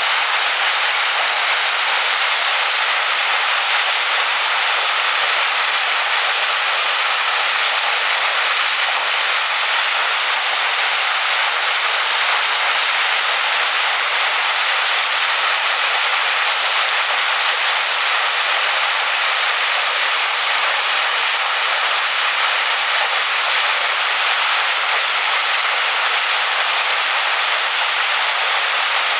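Waterfall splashing over rocks: a steady, even rush of water, bright and hissy with little low rumble.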